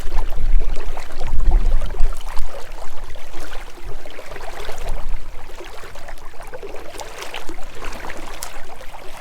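Water sounds from a kayak on a fast, high-running creek: moving, splashing water around the boat. A strong low rumble sits under it for the first two seconds or so, then eases.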